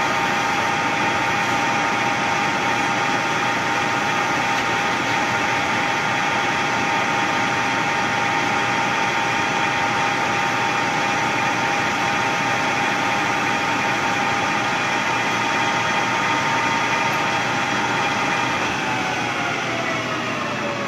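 Machine tool's motor running at a steady speed with a high, even whine over a hiss, then spinning down near the end as the whine falls in pitch.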